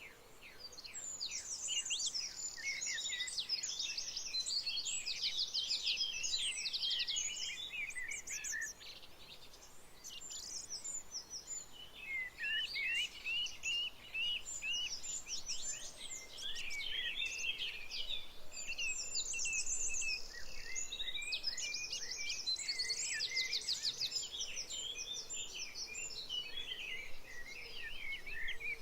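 Several songbirds chirping and trilling together in a dense chorus of quick, high notes. The singing thins briefly about a third of the way through, then fills in again.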